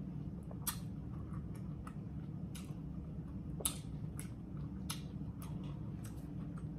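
Wet mouth clicks and smacks from chewing juicy watermelon and working out the seeds, about seven sharp clicks spaced irregularly over a steady low hum.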